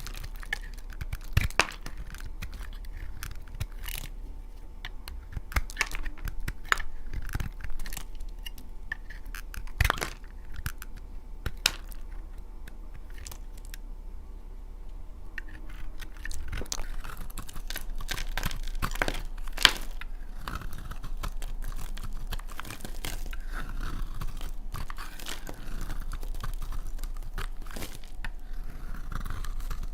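Dry laundry soap being cut with a blade: a run of crisp cracks and crunches as the hard, dry soap splits, turning into denser, continuous crunching and scraping about halfway through.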